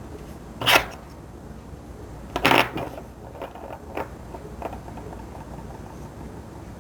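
Hand-handling noises at a workbench: two short, sharp rustles, the first under a second in and the second about two seconds later, then three lighter clicks a little over half a second apart.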